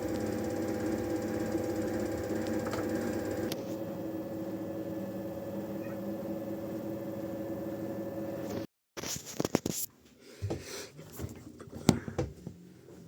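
Washing machine running with a steady motor hum of several fixed tones, which shifts slightly about three seconds in. It breaks off abruptly and is followed by a few scattered clicks and knocks.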